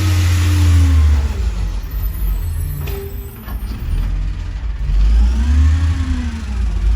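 Garbage truck engine running loud and low, its pitch falling off near the start and revving up and back down again near the end, with a sharp click about three seconds in.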